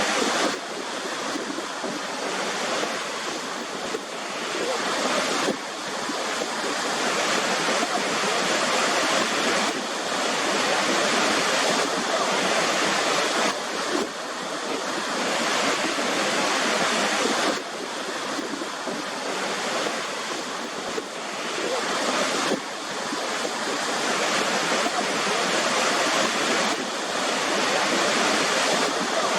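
Waterfall: a steady rush of falling water. Its level jumps abruptly up or down every few seconds.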